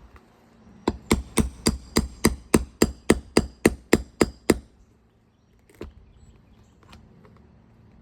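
Roofing hammer striking a steel nail puller in a fast run of about fourteen metallic blows, about four a second, working the puller under a roofing nail to pull it. A single lighter knock follows near the end.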